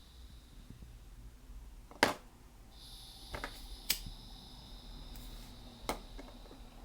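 A lighter struck with sharp clicks, about three or four times at intervals of a second or two, to light a cheap butane gas soldering iron. Under them a thin steady hiss of butane escaping from the iron's opened valve comes in about three seconds in.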